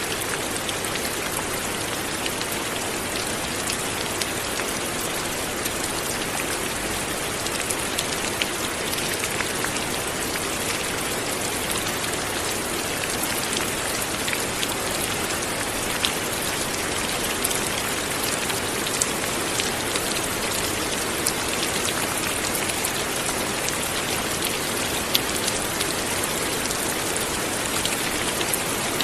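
Light rain falling steadily, a soft even hiss with many small drops pattering on a surface, some closer drops standing out as sharp ticks.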